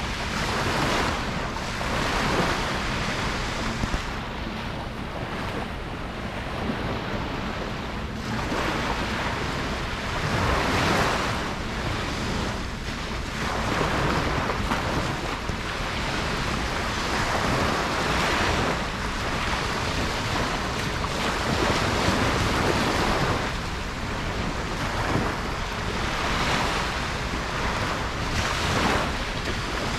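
Ocean waves breaking and washing up a beach, a continuous surf rush that swells and eases every few seconds.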